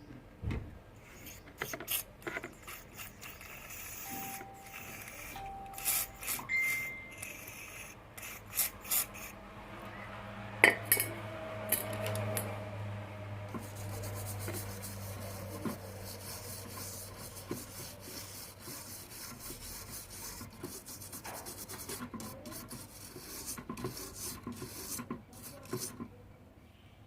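Hands-on repair noises from an electric rice cooker: light scraping and rubbing, with scattered clicks and taps as parts are handled.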